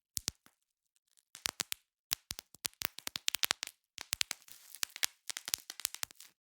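Bubble wrap being popped: irregular sharp pops in quick clusters, with a short pause about a second in. From about four seconds in, denser pops come with the crinkling of the plastic sheet.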